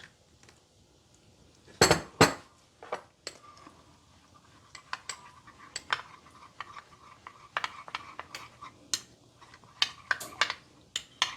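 A metal spoon clinking and tapping against a small container while cornstarch is mixed into a slurry. Two loud knocks come about two seconds in, then a steady run of quick clinks.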